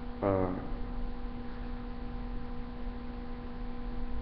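Steady electrical hum with a few fainter higher tones above it. A man's brief voiced hesitation sound comes about a quarter second in.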